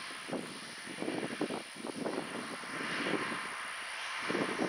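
Diesel engines of John Deere 8R-series tractors working under load as they pull moldboard plows, a steady drone with uneven rumbles mixed in.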